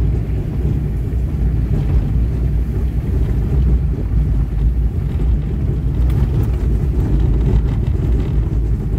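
Small Hyundai car driving on a rough dirt track: a steady low rumble of engine and tyres, with a few faint clicks later on.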